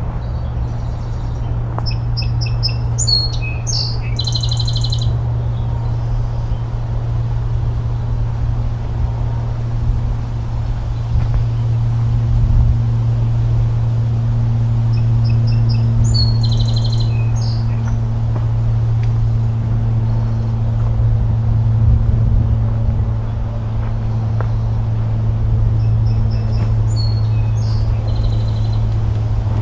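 A songbird sings the same short phrase three times, each a few quick notes ending in a buzzy trill. Under it runs a louder, steady low hum like a distant engine.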